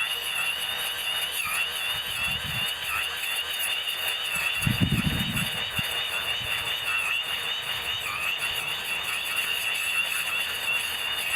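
Electric brush cutter running, heard as a steady high whine that wavers slightly in pitch, over a hiss of cutting, in footage sped up eightfold. A short low rumble comes about five seconds in.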